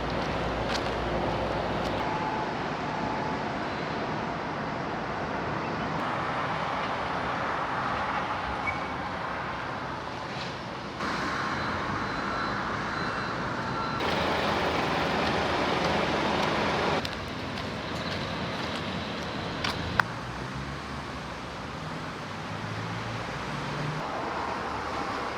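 Steady traffic-like background rumble and hiss, changing abruptly every few seconds, with a sharp click about twenty seconds in.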